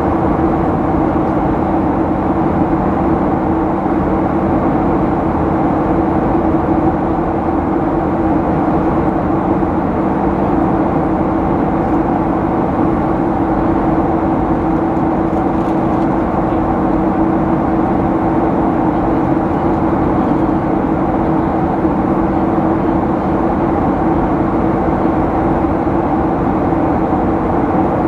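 Steady cabin noise of a Boeing 737-800 in flight: the constant hum of its CFM56 turbofan engines over the rush of airflow.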